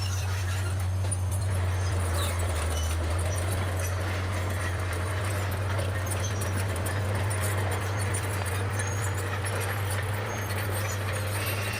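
Bulldozer's diesel engine running steadily, a constant low drone with faint rattling above it.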